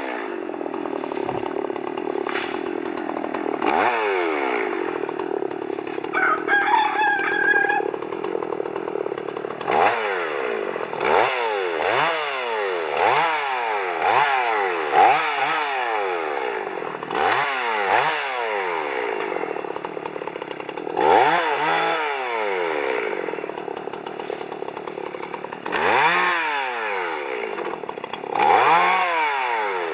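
Two-stroke chainsaw cutting wood, its engine pitch dropping as the chain bites and rising again, over and over. A rooster crows once, a few seconds in.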